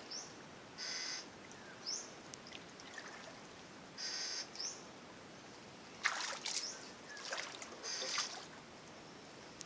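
Small birds chirping: a short rising call every couple of seconds. Between the calls come brief splashing noises, the loudest about six and eight seconds in.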